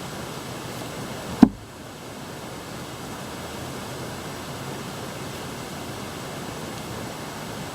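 Steady hiss of background noise, with one sharp knock about one and a half seconds in, as of something set down on a table.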